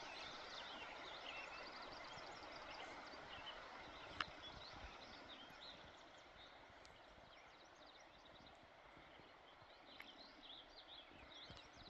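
Faint woodland ambience: small birds chirping here and there over a soft steady hiss, with one sharp click about four seconds in.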